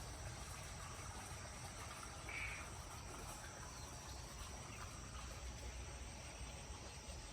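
Faint, steady chorus of insects shrilling on high steady tones, with one brief chirp about two and a half seconds in.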